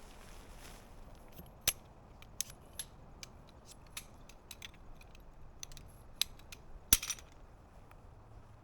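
Scattered small clicks and clinks of gear being handled, irregular and sharp. The loudest is a short rattle of clicks about seven seconds in.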